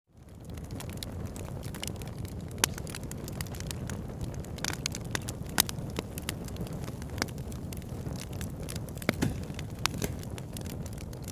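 Wood fire burning in a fireplace: a steady low rumble of flames with frequent crackles and a few sharper pops. It fades in from silence at the start.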